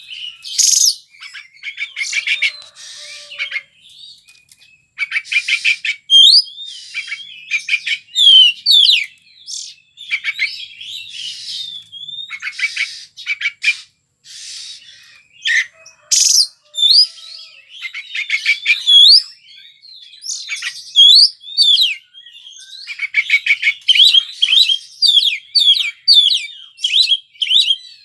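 Oriental magpie-robin (kacer) in full, continuous song: a varied run of sharp whistled notes sliding up and down, mixed with rapid rattling trills, in phrases broken by short pauses.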